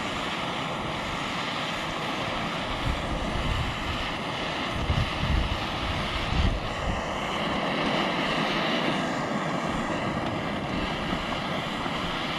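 Gas torch flame burning steadily against aluminium, heating the metal around a riveted seam before the brazing rod will flow, with wind buffeting the microphone in irregular low gusts.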